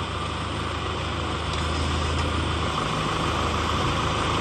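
Kubota tractor's diesel engine running steadily while the front-loader hydraulics work to tilt the bucket down, with a steady whine over the engine and the engine note shifting about two-thirds of the way in.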